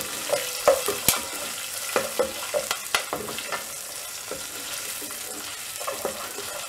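Urad dal with pieces of green chilli, ginger, coconut and tamarind sizzling as they fry in hot oil in a saucepan, while a wooden spatula stirs and scrapes them against the pan. The scrapes and taps come thick in the first half, then the steady sizzle carries on with only a few strokes.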